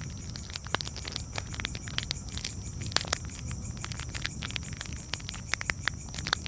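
Campfire crackling: irregular sharp pops and snaps, several a second, over a steady low rumble, with a constant high-pitched hiss above.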